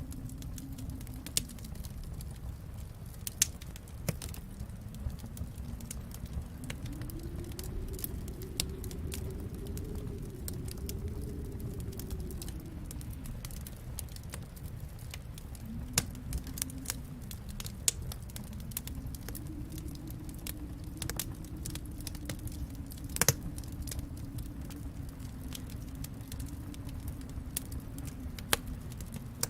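Wood fire crackling in a fireplace, with scattered sharp pops (the loudest about 23 seconds in) over a low rumble that swells and eases every several seconds.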